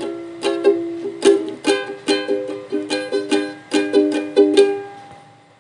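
Ukulele strummed in chords, a few strokes a second, with no voice; the strumming fades away near the end.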